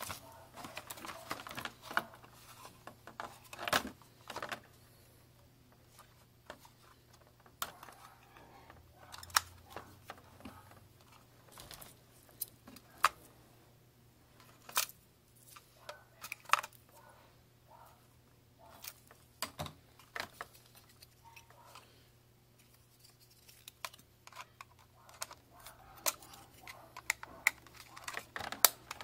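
Hands unpacking: irregular clicks, taps and rustles of packaging and small plastic parts being handled, over a faint steady hum.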